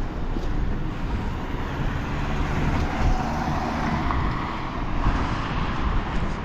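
Road traffic going by, with wind buffeting the microphone as a steady low rumble; one vehicle swells louder about halfway through.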